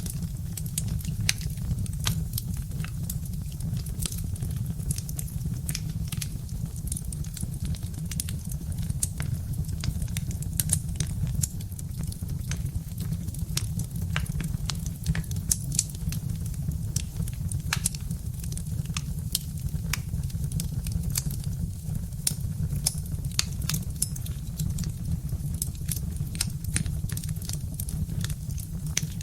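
Birch-log wood fire crackling, with frequent irregular sharp pops and snaps over a steady low rumble.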